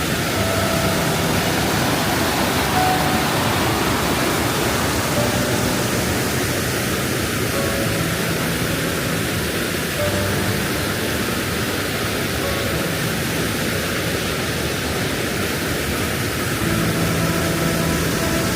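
Steady rushing noise with faint background music under it.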